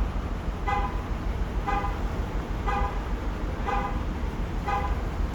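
Car electronic warning chime beeping about once a second in short even tones, over a steady low rumble.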